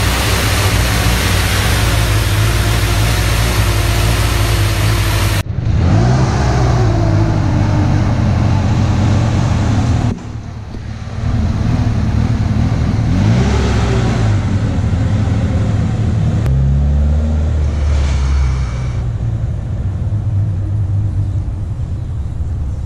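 Nissan SR20DET turbo four-cylinder idling steadily, heard close up in the engine bay. About five seconds in, the sound cuts to the car being driven, the engine revving up and down a few times.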